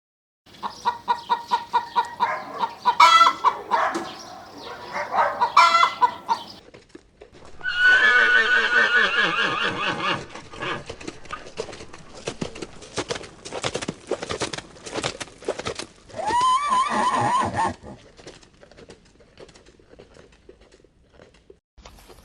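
Farm animal calls, one after another. Over the first few seconds come quick pulsed calls. About eight seconds in there is a long call that falls in pitch, then a run of sharp clicks, and near the end a short arched call.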